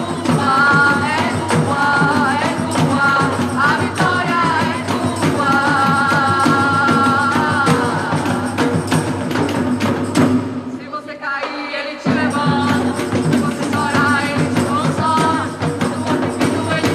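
Gospel band music: a melody over a steady beat with tambourine-like percussion. The bass and drums drop out for about a second and a half near the two-thirds mark, then the full band comes back in.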